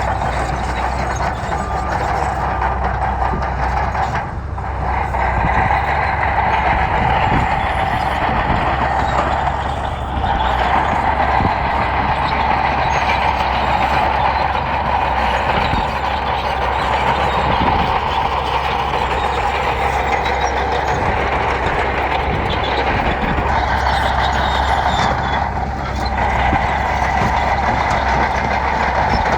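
Bulldozer's diesel engine running steadily under load while pushing gravel, with brief dips in level a few times.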